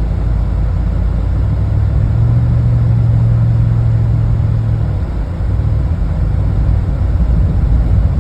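Car driving on a snowy road, heard from inside the cabin: a steady low engine and road rumble, with a low hum that swells about two seconds in and eases off about five seconds in.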